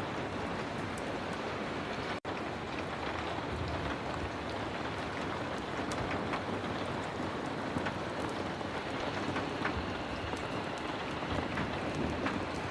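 Heavy rain falling steadily, a dense even hiss with scattered small clicks. The sound cuts out for an instant about two seconds in.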